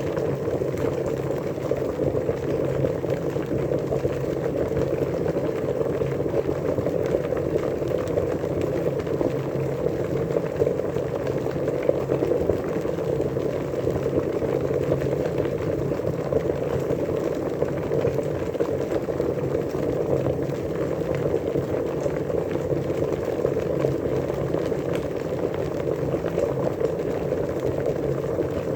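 Water at a rolling boil, a steady dense bubbling and gurgling that does not let up.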